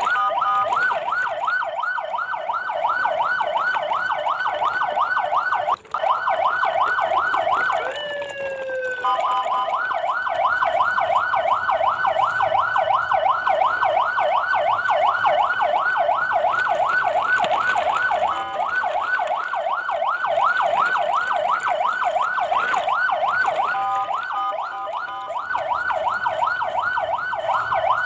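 A siren yelping, its pitch sweeping up in quick repeats several times a second. It cuts out for an instant about six seconds in, slides down and pauses about eight seconds in, then resumes, with short steady-pitch holds twice later on.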